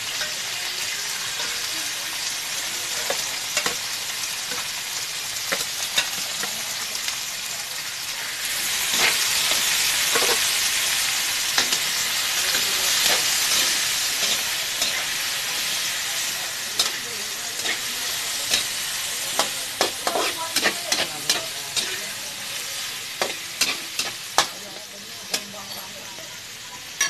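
Chicken heads sizzling as they fry in oil in a wok, growing louder about a third of the way in. A utensil stirring them clacks and scrapes against the pan, with quick knocks in the second half.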